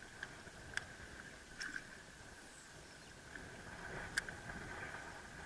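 Quiet open-water ambience: a steady high-pitched chirring runs throughout, and a few sharp clicks or knocks come about a second in, near the middle and again about four seconds in.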